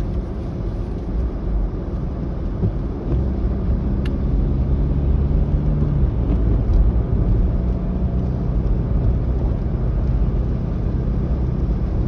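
Road and engine noise heard from inside a moving car: a steady low rumble, with the engine's hum coming up stronger for a few seconds about three seconds in.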